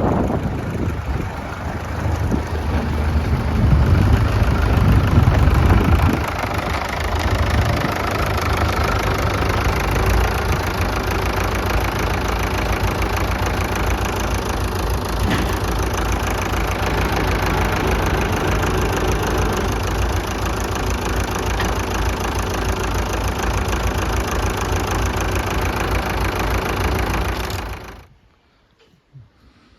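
Fordson Power Major tractor's four-cylinder engine running, louder for a few seconds early on and then settling to a steady run, before cutting off suddenly near the end.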